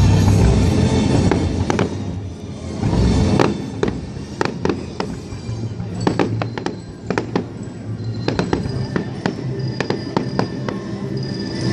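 Fireworks going off in a rapid series of sharp bangs and crackles over loud music; heavy bass in the first two seconds, then the bangs come thick and fast.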